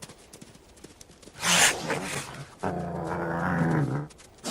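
Coyotes and a river otter snarling as they fight: a sharp hissing snarl about one and a half seconds in, then a low growl held for over a second.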